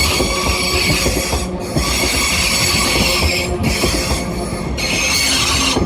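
Class 331 electric multiple unit rolling out of the station, its wheels squealing in high steady tones that cut out and come back a few times, over a low rumble and scattered knocks of wheels over the rail joints.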